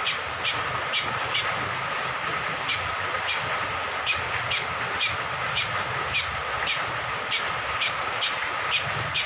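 Cucak kombok (kecial kombok, a honeyeater) calling: short, sharp notes that drop quickly in pitch, repeated about twice a second, over a steady hiss of rain water.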